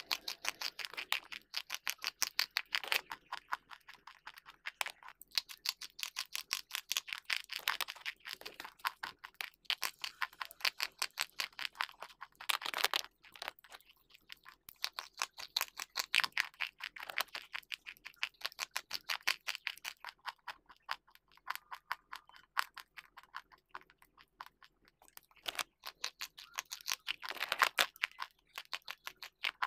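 Close-miked biting and chewing of hard white slate pencils: a fast, dense run of crisp crunching clicks, with louder bites now and then.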